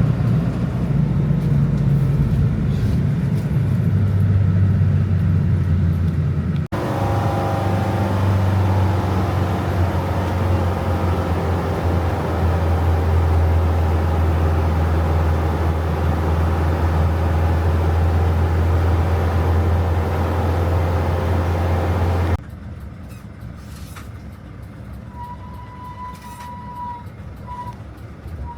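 Large vehicle's engine droning low and steady, heard in three separately cut stretches, the last one quieter. A few short beeps at one pitch sound near the end.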